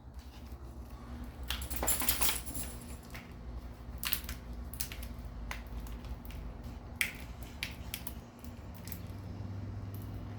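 Scattered sharp clicks and knocks, with a short rustling, scraping burst about two seconds in, over a low steady hum.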